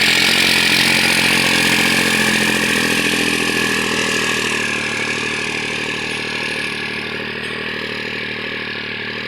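New Holland 3630 tractor's diesel engine running steadily, with its turbocharger's steady whine above the engine note; it grows slowly quieter.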